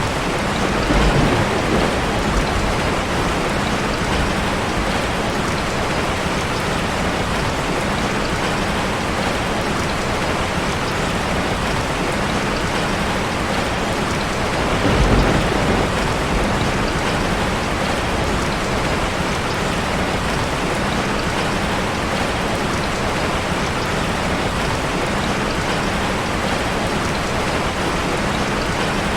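Heavy rain falling steadily on a car, a dense even hiss of drops on the body and glass. A low rumble swells briefly about halfway through.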